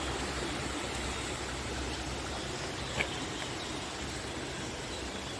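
Steady rushing of water from a small stream, with one short click about three seconds in.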